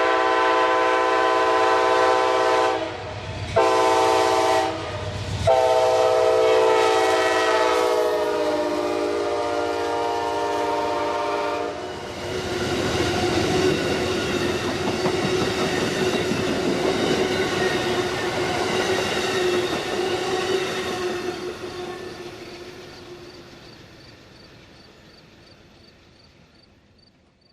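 Amtrak P42 diesel locomotive's horn sounding at a grade crossing: a long blast, a short one, then a long held blast whose pitch sags as the locomotive passes. The horn gives way to the passenger train's wheels rolling by on the rails, fading steadily into the distance.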